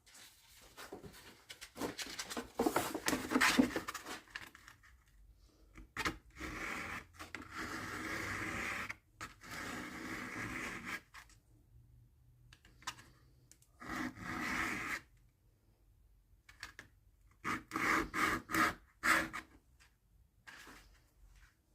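Walnut strip for a dulcimer nut and bridge being sanded: a series of scratchy sanding passes a second or two long, with short pauses between them.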